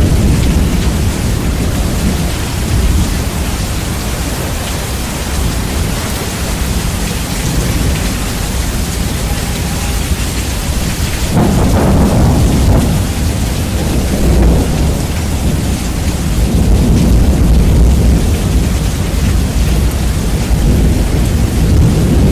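Steady rain with rolling thunder, heavily bass-boosted so a deep rumble dominates. A thunder roll swells about halfway through.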